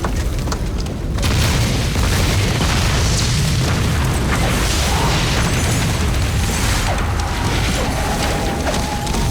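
Film sound effect of a heavy blast rumbling on: a loud, deep, continuous roar that swells about a second in and holds steady.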